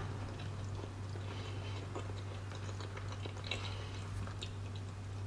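A person chewing a mouthful of hot baked potato: faint, soft mouth sounds over a steady low hum.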